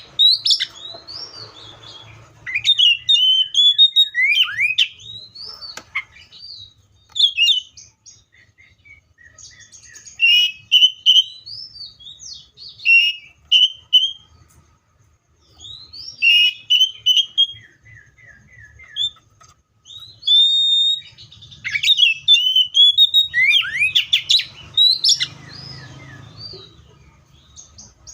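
Magpie-robin singing: loud, clear whistled phrases of quick rising and falling notes, broken by short pauses.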